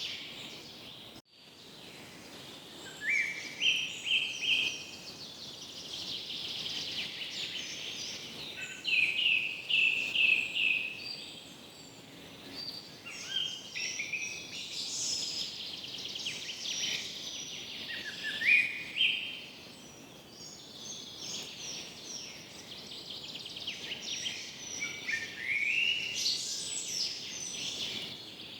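A dense chorus of many birds calling and chirping over a steady background hiss, with short stepped and rising phrases repeating throughout. The sound drops out briefly about a second in.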